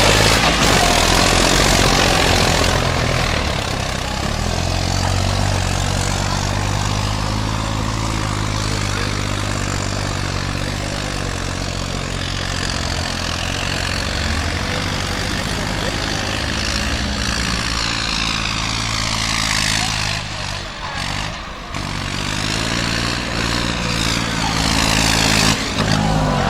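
Farm tractor engine running hard under load as it is driven over rough ground, its pitch rising and falling with the throttle. It drops off briefly about three-quarters of the way through, then picks up again.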